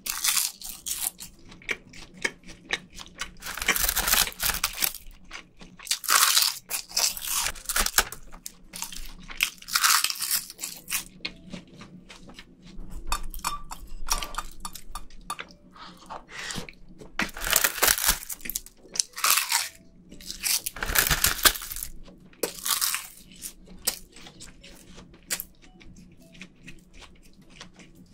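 Crisp roasted laver (gim) crunching and crackling as it is bitten and chewed with rice, close to the microphone, in irregular bursts every second or two.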